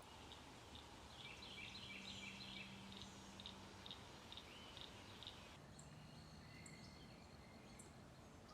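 Faint bird calls: a run of quick repeated high chirps for a few seconds, then a few thin, high downward-slurred notes, over quiet outdoor hiss.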